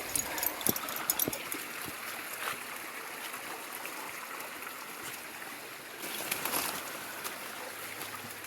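Steady rushing of a mountain stream, with scattered crackling clicks in the first two seconds from footsteps in brush and debris.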